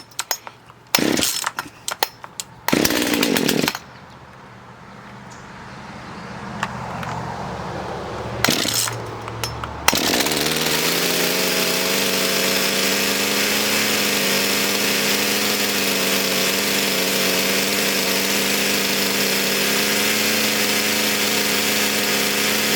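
Poulan P3816 two-stroke chainsaw being pull-started: a few short loud bursts at first, then it catches and runs quieter, building up, and from about ten seconds in it runs loud and steady. The saw starts and keeps running.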